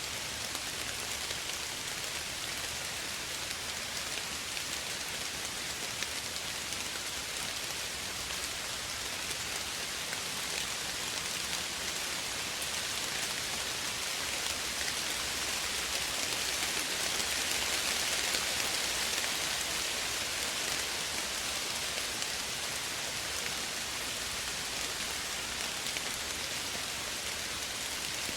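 Steady rain falling and pattering on surfaces, a soft even hiss that swells slightly around the middle.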